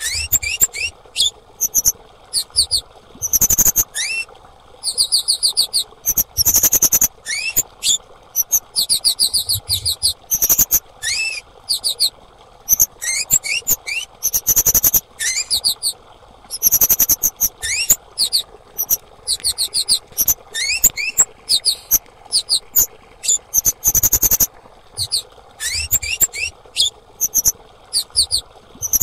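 Female kemade songbird calling: short bursts of rapid, very high-pitched chittering trills, some with quick rising whistles beneath them, repeated with brief gaps throughout, over a faint steady hiss.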